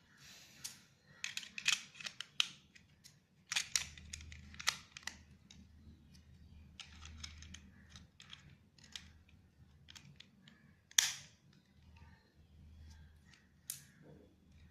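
Irregular sharp clicks and taps of the small battery trimmer's plastic housing and parts being handled and fitted back together, with a louder snap about eleven seconds in.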